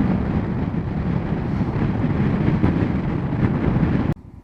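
Wind rushing over a motorcycle rider's microphone at road speed, a dense low buffeting. It cuts off abruptly near the end, leaving a much quieter background.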